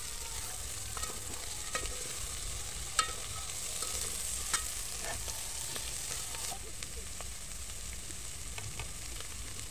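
Omena (small lake fish) frying with onions and green capsicum in a metal pot, sizzling steadily while a metal spoon stirs them. The spoon clinks against the pot now and then, sharpest about three seconds in.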